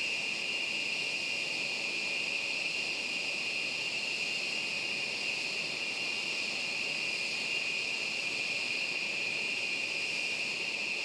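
Jet engines of a B-1B Lancer running steadily: an even, high-pitched whine over a broad hiss, with no rise or fall in pitch or level.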